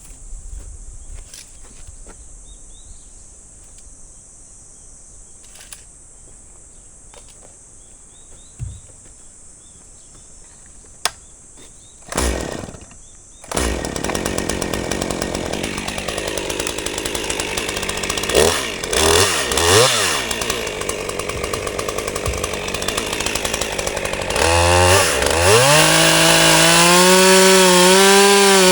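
Two-stroke chainsaw started about halfway through, running at idle with two quick throttle blips, then revved hard near the end and held at full throttle with a wavering pitch as it bites into a log. Before it starts there is a steady high insect buzz and a few faint clicks.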